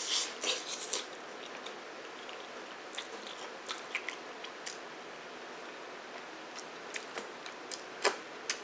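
A man chewing a mouthful of noodles, with short wet smacks and clicks of the mouth, most of them in the first second. Near the end come a few louder smacks as he sucks his fingers.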